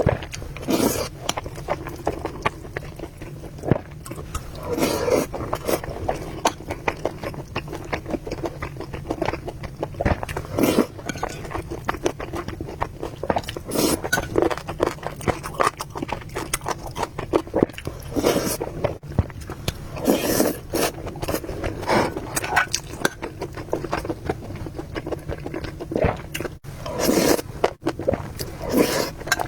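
Close-miked eating sounds from spicy noodles and meatballs: chewing with many irregular wet mouth clicks, and louder bites every few seconds.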